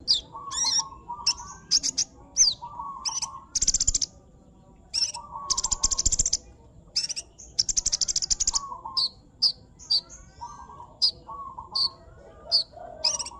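A sunbird (the bird kept as 'kolibri' in Indonesia) singing busily: quick repeated high chirps broken by several long, buzzy, rattling trills lasting about a second each, with lower notes mixed in.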